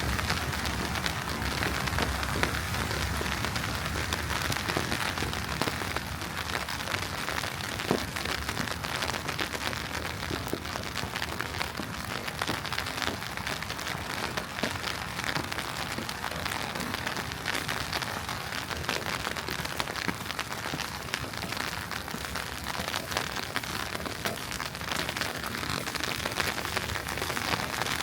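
Steady pattering hiss of wet snow falling on a city street, with one brief click about eight seconds in.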